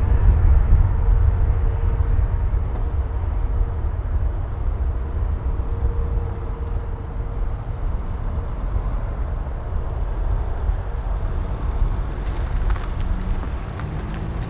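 Jet airliner engines giving a deep rumble that slowly fades, with a faint steady tone over it for the first half.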